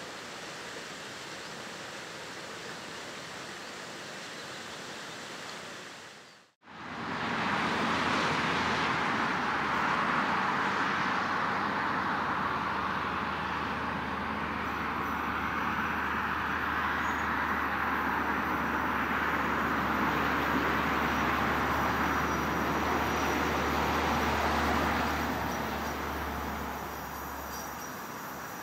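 A train running past a level crossing: a loud, steady rush of wheel and rolling noise with a low steady hum underneath. It starts suddenly after a brief dropout a few seconds in and eases off near the end.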